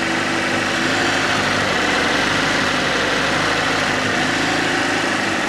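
Fiat FIRE four-cylinder engine idling steadily at full working temperature, with its newly fitted water pump running free of the grinding noise the old pump made.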